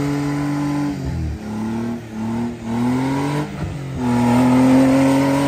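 Off-road Jeep engine revving under load as it works for traction on a sandy slope. Its pitch holds, dips after about a second, rises and falls, then climbs and holds high near the end.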